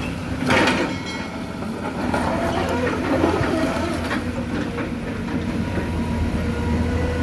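Excavator's diesel engine running steadily while it digs rock, with a loud scrape about half a second in and scattered knocks of stone against the bucket.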